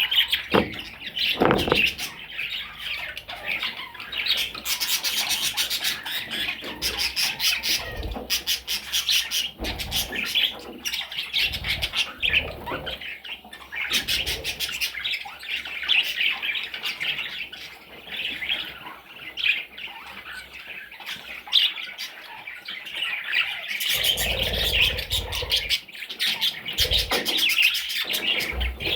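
Budgerigar chattering and warbling without pause, mixed with quick clicks and chirps.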